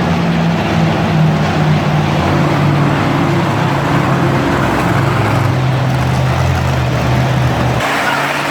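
Monster truck engine running loudly and steadily, its pitch dipping a little about halfway through and rising again near the end.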